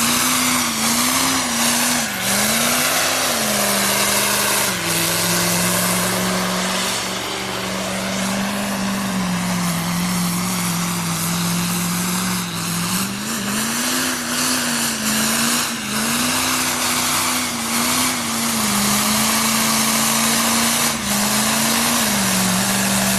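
Diesel pickup truck engine revving hard in repeated surges, holding a steady high pitch for several seconds in the middle, over a continuous loud hiss.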